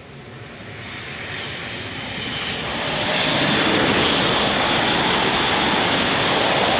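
Hokuriku Shinkansen train approaching at high speed: a rushing roar that swells over about three seconds, then holds loud and steady.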